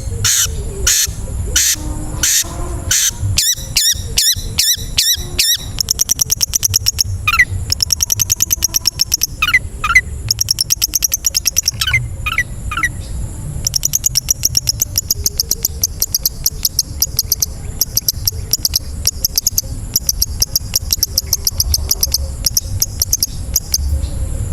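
Long-tailed shrike song: fast trains of high, rapid-fire repeated notes, with several sharp falling whistles in the middle, over a steady low rumble.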